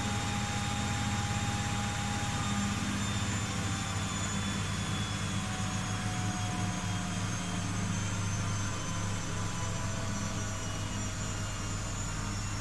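Miele W Classic washing machine running in its Cotton 90 °C program: a steady low hum with a thin motor whine that drifts slowly in pitch, from the stage of the wash-liquor cool-down and first interim spin.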